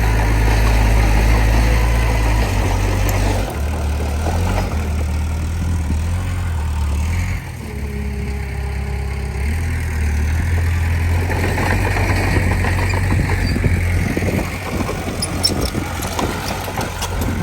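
Bulldozer's diesel engine running steadily, its engine speed shifting a few times. A few sharp clicks come near the end.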